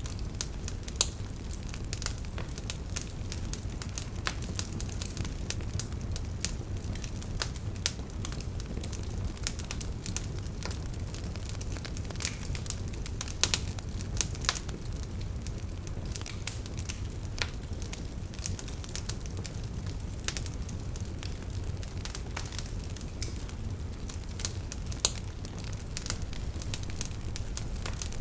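Wood campfire crackling: dense, irregular sharp pops and snaps over a steady low rush of burning, with a few louder pops, one about a second in, two around the middle and one near the end.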